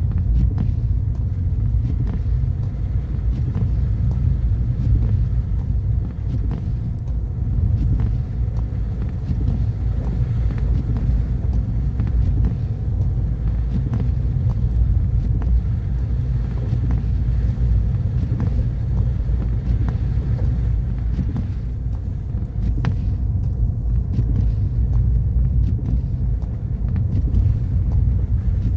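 A car driving steadily, with a continuous low rumble of engine and tyre noise and a few faint clicks.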